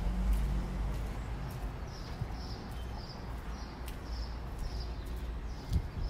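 A small bird chirping, one short high note repeated about twice a second from about two seconds in, over a steady low outdoor rumble.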